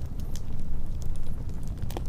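Wood fire burning with a steady low roar and scattered sharp crackles and pops, one louder pop near the end.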